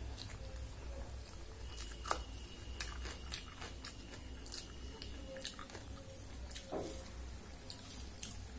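Close-up chewing and wet mouth clicks of a person eating rice and dal by hand, with small clicks and squishes of fingers working rice on a steel plate.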